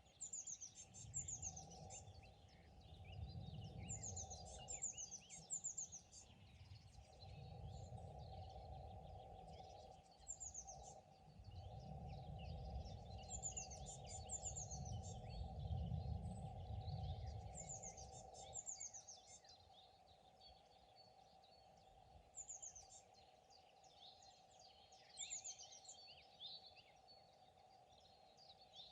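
Several songbirds singing, with short falling trills repeated again and again over other chirps. Under them a low rumble with a steady hum runs for the first two-thirds and stops about 18 seconds in.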